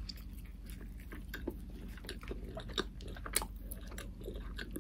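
Close-miked eating sounds: a bite into a breakfast burrito of flour tortilla, eggs, bacon, cheese and hash browns, then chewing, with scattered small clicks and mouth sounds, the sharpest about three and a half seconds in.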